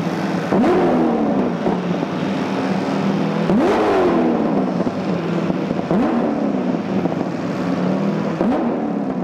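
Chevrolet Corvette C6 GT3's 6.6-litre V8 and exhaust, revved in four quick throttle blips, each rising sharply and falling back to idle; the third blip, about three and a half seconds in, goes highest.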